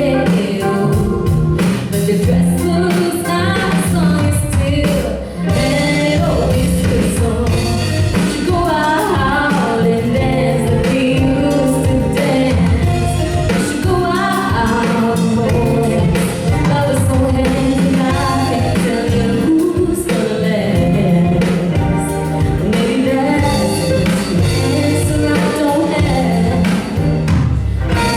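A song performed live: a singer's voice over instrumental accompaniment with a steady beat.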